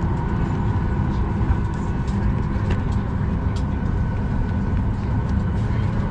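Steady cabin hum of a parked Boeing 737 MAX 8 before engine start: a low air-conditioning drone with a faint steady whine over it, and a few light clicks.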